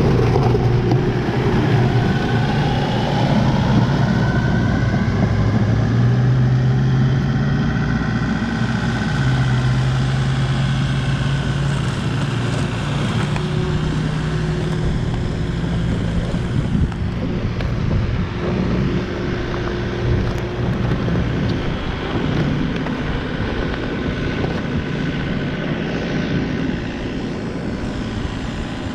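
Engine of a piece of farm machinery running steadily, its speed stepping up and back down now and then as it works.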